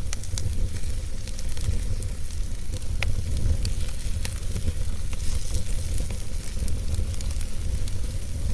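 Wood fire crackling in a fireplace: scattered sharp pops and snaps over a steady low rumble and hiss of the flames, with one clearer snap about three seconds in.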